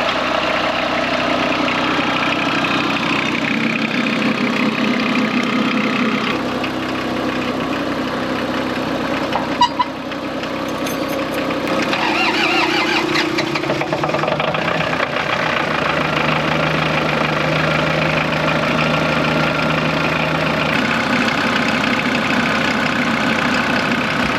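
Truck engine running at idle, its note shifting several times, with one sharp click about ten seconds in.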